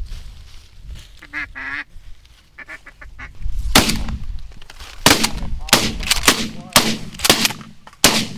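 Ducks calling with short quacks and honks, then from about halfway in a rapid run of about nine loud sharp bangs, roughly half a second apart.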